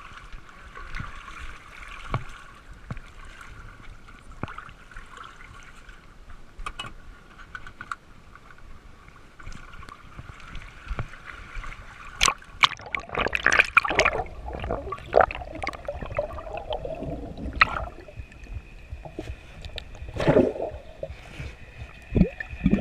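Water sloshing and splashing around a boat at a launch ramp, with scattered knocks and clicks, and a louder stretch of splashing about halfway through.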